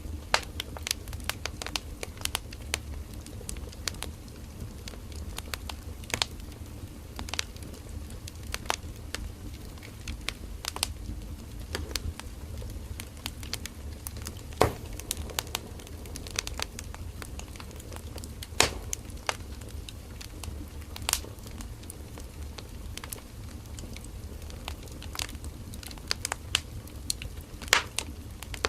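Burning firewood in a campfire crackling and popping, with irregular sharp snaps of varying strength over a low steady rumble of the flames; the loudest pops come about halfway through and again a few seconds later.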